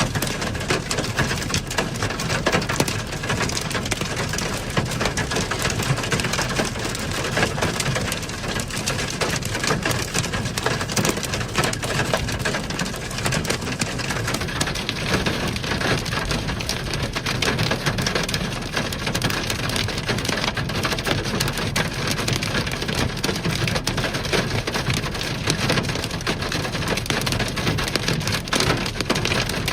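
Heavy rain pelting down in a severe thunderstorm: a dense, steady patter of countless drops striking a surface, with no letup.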